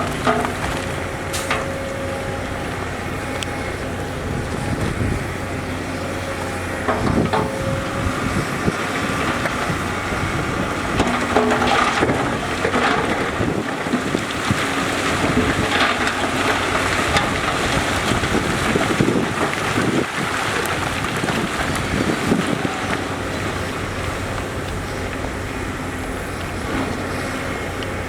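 Diesel engines of heavy earthmoving machinery running steadily, with scattered knocks and clanks of the machines working soil and rock.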